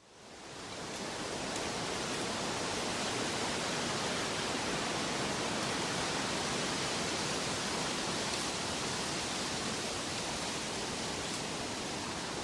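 Steady, even rushing of water, fading in from silence over about the first second and then holding level.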